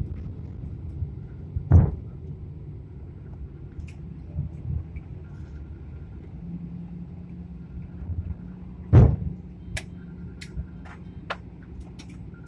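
Low, steady rumble of an airliner cabin as the plane comes in to land and rolls on the runway. It is broken by two heavy thuds, about two seconds in and about nine seconds in, and a few sharp clicks near the end.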